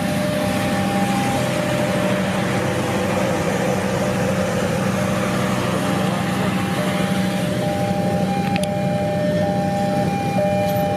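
Train running on the line, a steady rumble with long, level high tones held over it.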